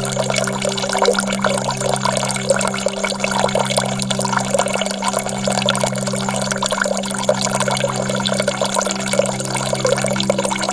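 Steadily running water, with a low sustained musical drone beneath it; the drone's lowest note breaks and sounds again about every two seconds.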